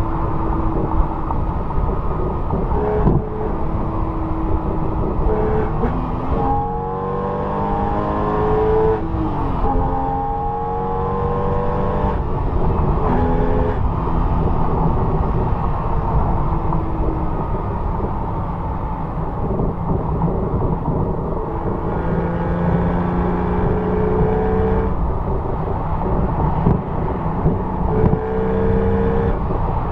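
Porsche 911 Carrera (997) 3.6-litre flat-six heard at the exhaust while driving. The engine note climbs in pitch several times and drops back at each gear change, over steady road and wind rumble.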